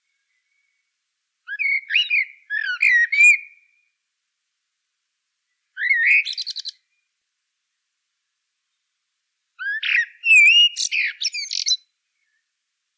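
A songbird singing three short warbling phrases of quick chirps and gliding notes, each one to two seconds long, with pauses between them.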